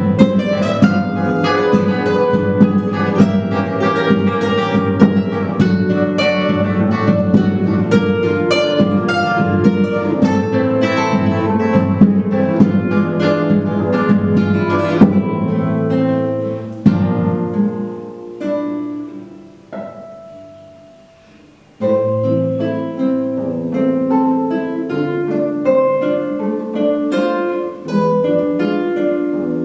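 A duet of two acoustic guitars playing a fast passage of plucked notes. Around halfway through the playing thins out and fades to a brief lull. Then it starts again with a strong low chord and slower, sustained phrases.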